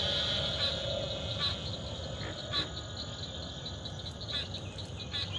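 Evening swamp chorus of frogs and insects: a steady high trill, with short separate calls breaking through about half a dozen times.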